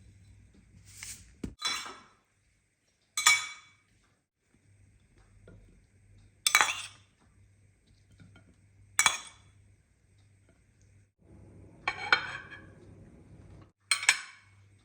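Dishes and cutlery clinking: about seven separate sharp clinks, each ringing briefly, spaced a second or more apart, over a faint low hum.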